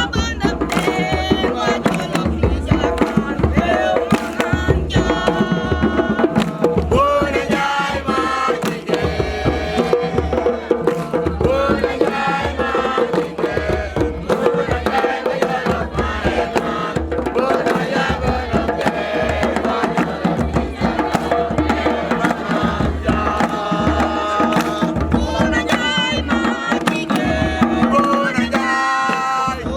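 Voices singing a chant over hand-drum beats.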